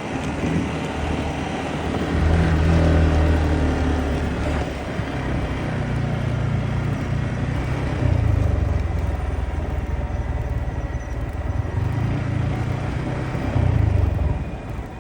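Motorcycle riding along a hill road, the engine note rising and falling with the throttle under rushing wind and road noise; the Yamaha MT-15's single-cylinder engine. The sound drops away near the end.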